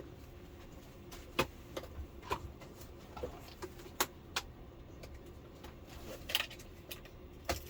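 Scattered sharp plastic clicks and taps, about eight spread unevenly, with a short scrape about six and a half seconds in, as the clipped-on plastic bezel of an LCD television is prised and worked loose.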